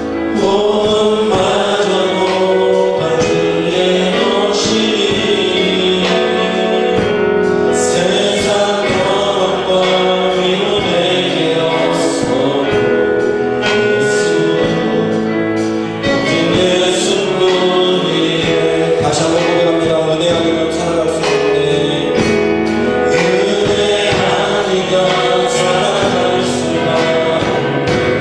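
Congregation and worship band singing a Korean praise song, voices over instrumental accompaniment with a steady beat.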